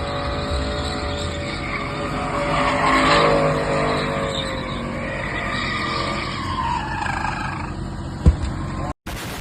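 Car engine revving while its tires skid and squeal on the pavement, with a single sharp crack near the end.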